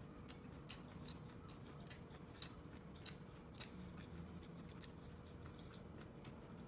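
A person chewing a mouthful of corn kernels, with faint, irregular mouth clicks, a few sharper ones between about two and four seconds in.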